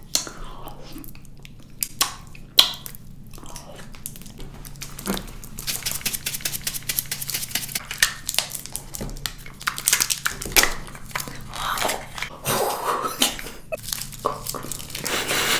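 Close-up handling of candy and its plastic packaging: scattered light taps and clicks, then dense crinkling and crackling from about five seconds in.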